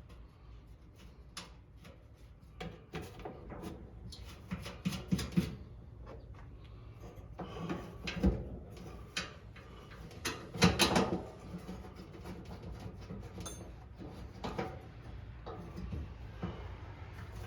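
Irregular clicks, knocks and clatters of parts and tools being handled during work on the headlight assembly, with a run of clatters about five seconds in, a single hard knock after eight seconds and the loudest clatter a little past halfway.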